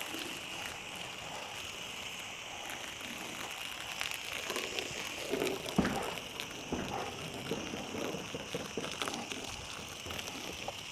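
Garden-hose foam cannon spraying soapy foam onto a car: a steady spray hiss with patter, and a few small knocks about five to six seconds in.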